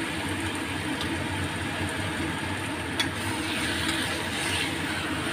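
Chicken pieces and spice paste frying in a stainless steel wok: a steady sizzle over a low hum, with a metal spatula clinking against the wok once about three seconds in.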